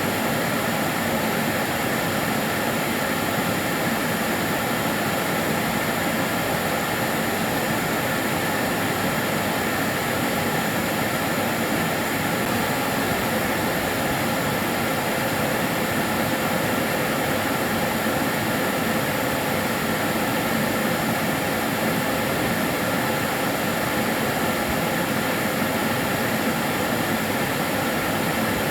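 Karcher DS 6 Premium water-filter vacuum cleaner running steadily: a constant rushing whoosh of its motor and airflow with a faint steady whine, no change in pitch or level.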